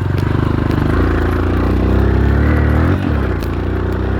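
Dirt bike engine running hard under throttle, its pitch climbing, dropping sharply about three seconds in, then climbing again.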